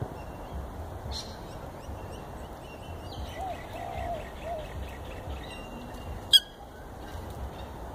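Birds calling: a low cooing phrase of three notes, a short note, a longer wavering one and another short note, heard about three and a half seconds in, over high chirps from small birds. A single sharp click about six seconds in is the loudest sound.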